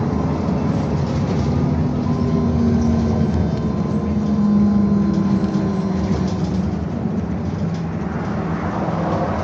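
Interior sound of a BKM-221 electric trolleybus on the move: steady road rumble, with the electric traction drive's whine coming in about a second and a half in and fading out near the end.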